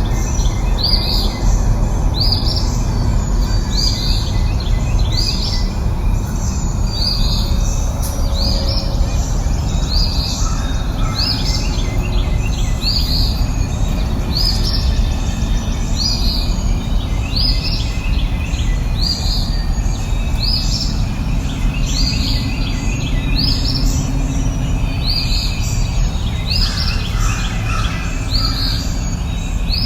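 A bird calling over and over with short, high chirps, about one a second, over a steady low rushing background noise.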